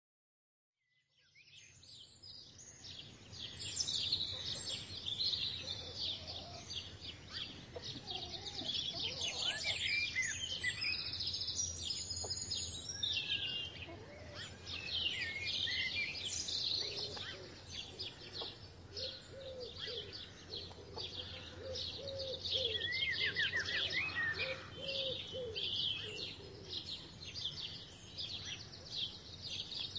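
Many small birds chirping and singing together in a dense, continuous chorus of quick high chirps and trills, fading in over the first few seconds, over a steady low hum.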